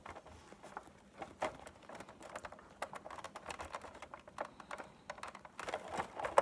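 Light, irregular clicks and taps of small plastic parts as a gear motor with a new gear is slid and pressed back into a Big Mouth Billy Bass's plastic gearbox.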